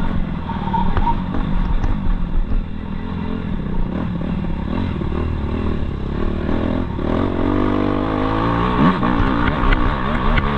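Suzuki RM-Z250 motocross bike's four-stroke single-cylinder engine running under throttle, its pitch rising and falling as the throttle is worked, with quick wavering revs in the last few seconds.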